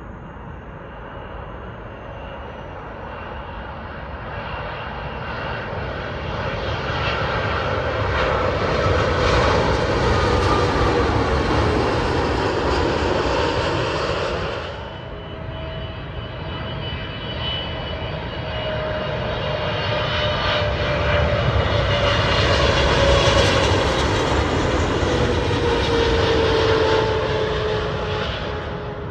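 Two twin-engine widebody airliners on final approach, passing low overhead one after the other. Each jet's engine noise builds to a loud peak with a whine gliding down in pitch as it goes by. The first cuts off abruptly about halfway through, and the second fades near the end.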